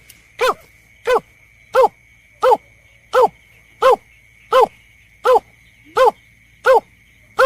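Looped lure-call recording of a berkik (snipe): a short arched call note repeated evenly, about every 0.7 seconds, over a steady high whine.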